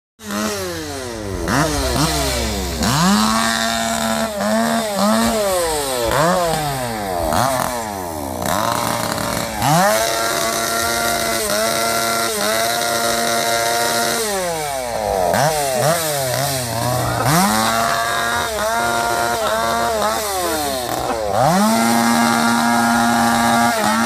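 Motocross bike engines revving hard with a buzzy, chainsaw-like note, the pitch climbing through the gears again and again and dropping back off the throttle, at times held steady at high revs; more than one bike is heard at once.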